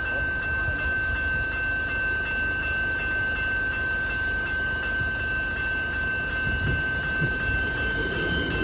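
Train running through a level crossing with a steady low rumble, growing louder and rougher near the end, while the crossing's warning bell sounds a continuous high tone.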